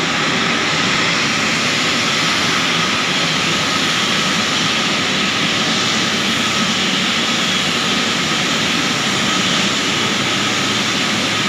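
Jet airliner engines running, a loud steady rush of noise with a faint thin whine held throughout.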